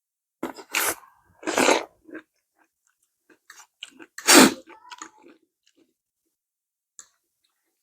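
Close-miked eating: chewing and crunching food, with loud noisy bites or slurps at about half a second, at one and a half seconds and at about four seconds in, and small wet mouth clicks between.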